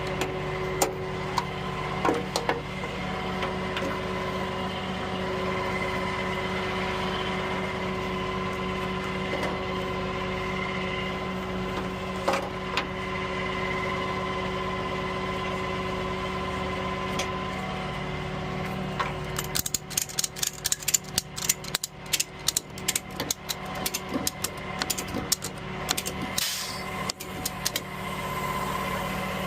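Truck engine running steadily, with a few scattered clicks. After about twenty seconds it gives way to several seconds of rapid clicking and rattling, and the steady running comes back near the end.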